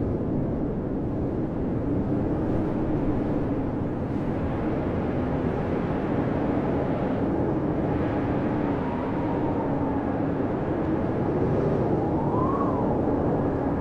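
Blizzard wind blowing steadily with a low, wavering howl, and a higher whistle that rises and falls about twelve seconds in.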